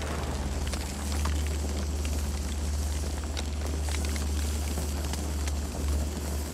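Campfire burning, crackling with scattered sharp pops over a steady low rumble.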